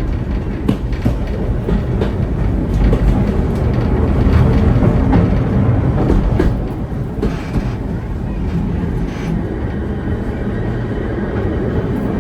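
Heritage steam-train carriage running along the track: a steady rumble of wheels on rails with scattered clicks over the rail joints, easing slightly about halfway through.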